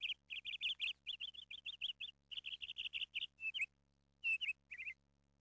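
A bird chirping in quick runs of short, high chirps, several a second, with a short break about four seconds in.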